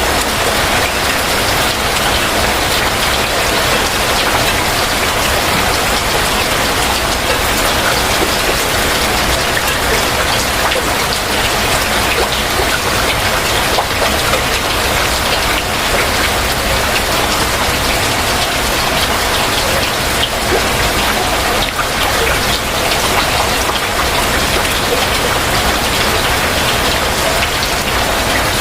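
Heavy rain falling steadily, a dense even hiss with many small drop impacts on surfaces.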